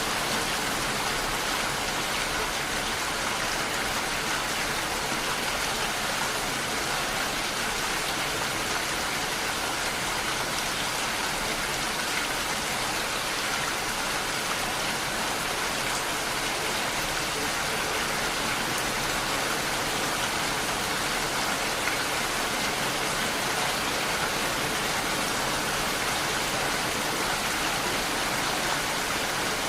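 Steady rain falling, an even hiss of many drops with no change in strength and no thunder.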